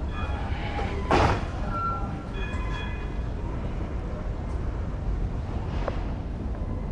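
BART train running on the rails: a steady low rumble, with brief high squealing tones twice and a short knock about a second in.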